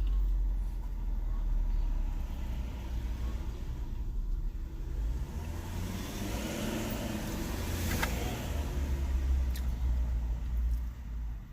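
Low traffic rumble, with a car passing that swells up and fades away about six to ten seconds in, and a sharp click near its loudest point.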